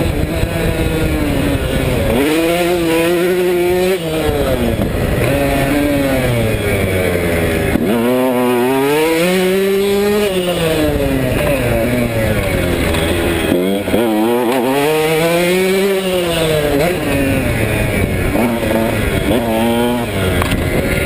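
KTM 150SX single-cylinder two-stroke motocross engine ridden hard, its revs repeatedly climbing and dropping as the throttle is opened and closed, with several big climbs in pitch.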